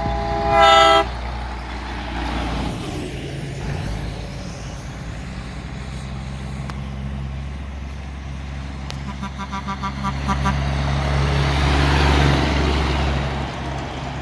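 Truck air horn blasting a chord for about a second, then a diesel truck engine running. Around ten seconds in comes a brief fluttering burst of horn toots, and the engine swells louder as the truck passes.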